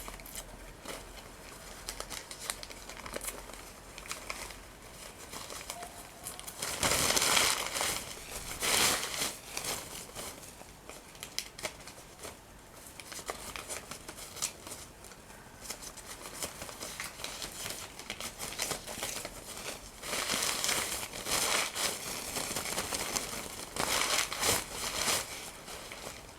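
Paper being crumpled and torn: a continuous crinkling, with louder bursts of rustling and ripping about seven to nine seconds in and again from about twenty to twenty-five seconds in.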